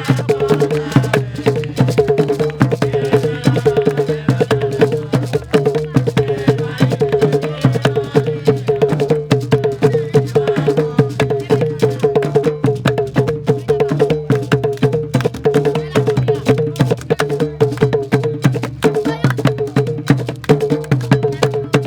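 Live West African drumming: a hand-drum ensemble with a talking drum playing a fast, dense, steady rhythm.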